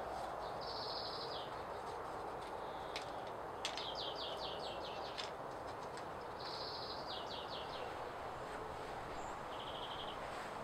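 A small songbird sings short high trilled phrases several times over a steady outdoor background rush. A few sharp knocks sound between about three and five seconds in.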